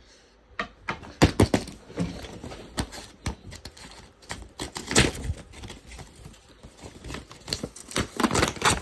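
Paper model being stabbed over and over with a pointed tool: a run of irregular sharp pokes and punctures through paper, starting about half a second in.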